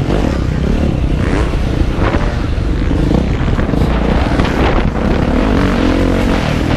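Motocross motorcycle engine revving up and down as the bike is ridden hard, heard from on board, with rushing wind noise and a few clatters over it.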